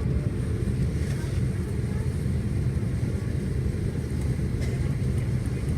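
Steady low rumble inside the cabin of an Airbus A330 taxiing after landing, its engines running at low power.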